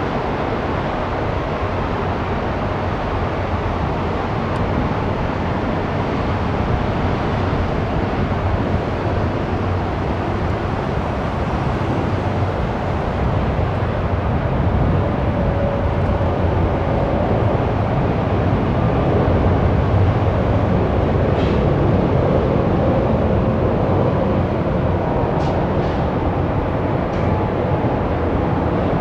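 Boeing 777-300ER's GE90-115B jet engines running: a steady rushing rumble that slowly grows louder, with a few faint ticks in the second half.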